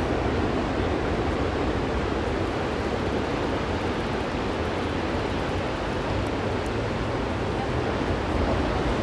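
Ocean surf washing onto a beach as a steady wash of noise, with wind rumbling on the microphone.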